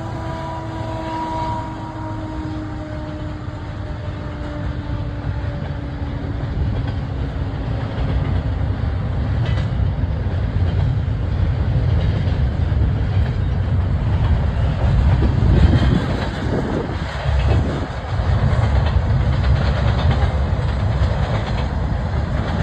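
Train running past, a heavy low rumble that grows louder toward the middle and back off briefly a couple of times near the end. At the start a held chord of tones slowly falls in pitch and fades away over the first few seconds.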